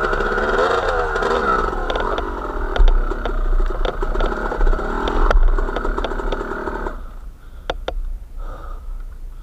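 A small vehicle's engine running with a wavering pitch, then stopping abruptly about seven seconds in, after which a few sharp clicks are heard.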